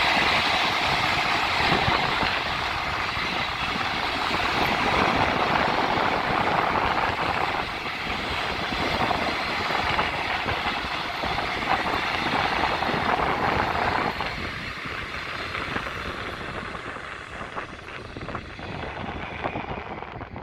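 Passenger train rolling past, a steady rushing of wheels on rails from the coaches. It drops off sharply about two-thirds of the way through and then fades as the train moves away.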